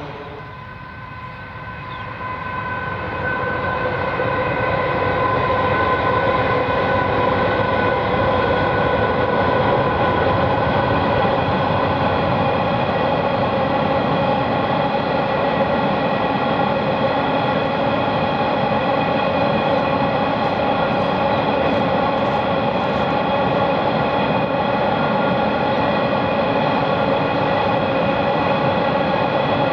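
Coal train hopper wagons rolling across a girder bridge: a continuous rumble with a steady high ringing tone over it, swelling over the first few seconds and then holding even.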